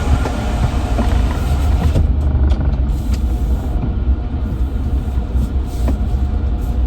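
Car running, heard from inside the cabin: a steady low rumble with a few light clicks, the hiss above it dropping away about two seconds in.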